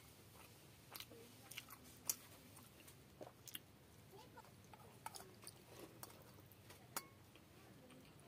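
Quiet, close-up chewing and crunching of fried small fish eaten by hand, with scattered sharp clicks, the loudest about two seconds in and another at about seven seconds.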